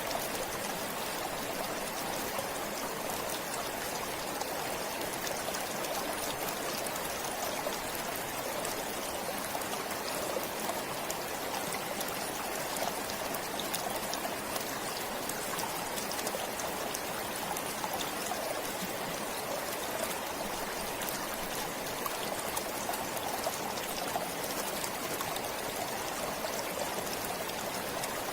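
A forest stream flowing steadily: a constant rush of water with fine trickling and splashing.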